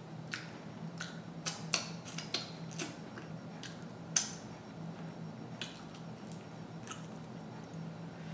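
Close-miked wet mouth sounds of a person chewing and smacking their lips: a string of short, sharp smacks and clicks, the loudest about four seconds in as fingers are licked clean, over a faint steady hum.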